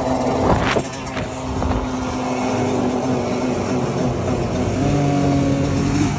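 Dirt bike engine running at a steady pitch, with a brief rev under a second in and a change to a lower, different engine note about five seconds in.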